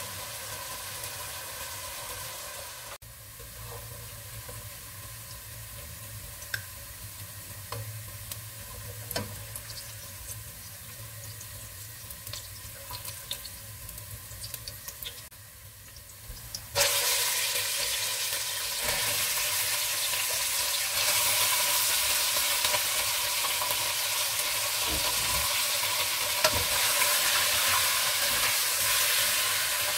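Sliced onions sizzling in hot oil in a pot, with the clicks and scrapes of a spatula stirring. A little over halfway through, the sizzle suddenly gets much louder as raw chicken pieces go into the hot oil. They keep frying loudly while a wooden spoon stirs them.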